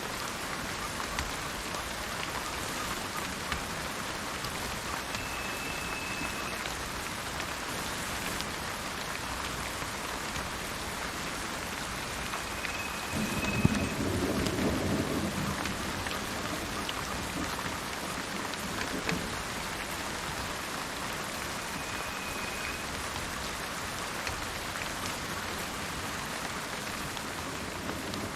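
Steady rain falling, with a low thunder rumble swelling about halfway through and fading over a few seconds. A bird gives a short, high, even whistle three times, several seconds apart.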